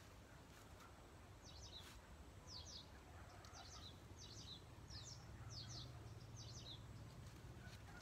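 A small bird faintly chirping, short high chirps in quick pairs repeated about every second for several seconds, starting about a second in and stopping a second before the end, over a low steady rumble.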